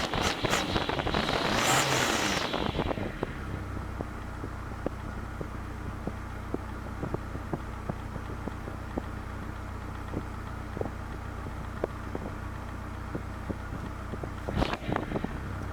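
Car driving: wind buffets the microphone for the first couple of seconds, then a steady low engine and road drone continues. There is a brief rustle near the end.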